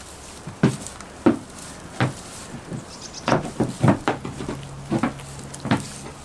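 A string of about ten irregular sharp knocks and taps over a steady hiss of rain. A steady low hum joins about four seconds in.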